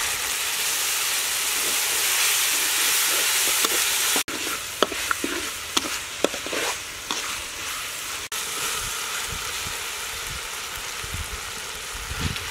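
Spice paste sizzling in hot oil in an aluminium wok, louder in the first few seconds as liquid sauces are poured in. A metal spatula scrapes and clicks against the wok as the paste is stirred.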